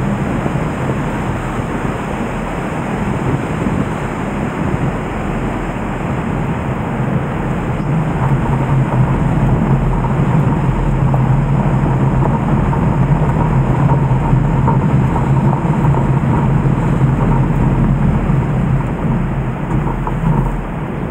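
Steady rushing of the Nagara River in flood, swollen by typhoon rain, growing a little louder about eight seconds in.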